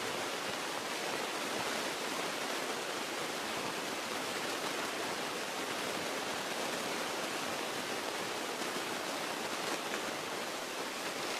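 Steady, even hiss of cockpit noise in a Beechcraft Musketeer single-engine light plane on final approach at reduced power, the engine and airflow blended together.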